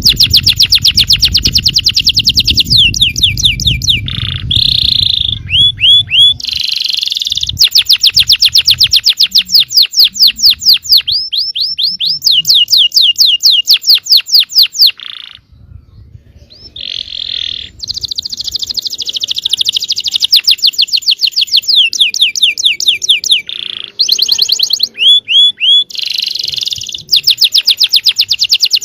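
Yellow domestic canary singing long, fast rolling trills of rapidly repeated high notes. The phrases change pace and break off briefly, with a short pause about halfway through.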